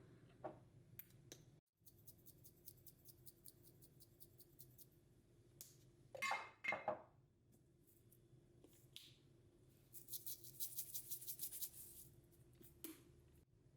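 Quiet handling sounds: runs of rapid light clicks, with two brief louder scrapes about six seconds in.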